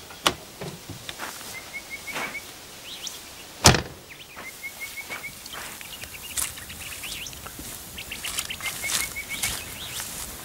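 A bird repeating a short run of about five quick high notes, three times, over a quiet outdoor background with scattered faint clicks. A single sharp knock stands out about a third of the way through.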